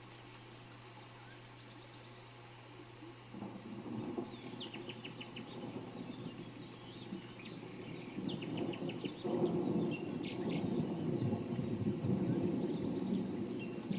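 Rain falling steadily, starting about three seconds in and growing louder, over a constant high insect drone. Birds give short, rapid series of chirps several times.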